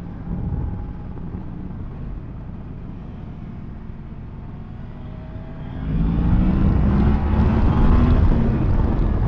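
Yamaha MT-10 SP's crossplane inline-four engine running at low, steady revs. About six seconds in, the throttle opens: the engine gets louder and rises in pitch as the bike accelerates.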